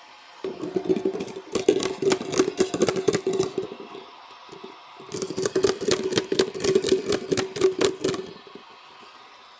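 LG washing machine turning its drum during the rinse cycle, in two bursts of about three and a half seconds with a short pause between. Each burst is a steady motor hum over rapid rattling and clatter.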